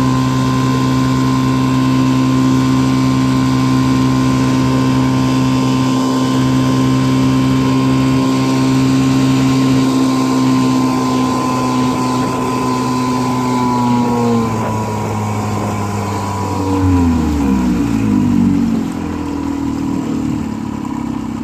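1955 Johnson CD-12 5.5 hp two-cylinder two-stroke outboard motor running steadily at speed, then throttled down about two-thirds of the way through. Its pitch falls over a few seconds and settles into a lower, unsteady low-speed run.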